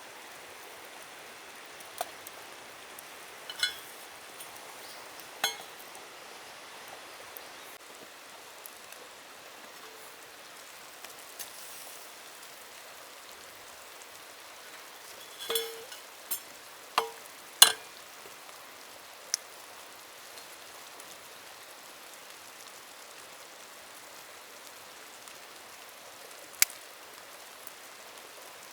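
Steady rushing of a forest river, with scattered sharp clicks and clinks, several bunched about halfway through.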